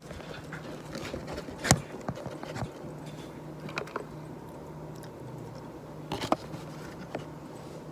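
Scattered light taps and clicks, a second or more apart, the loudest about two seconds in and a quick pair near the end, over a low steady hum.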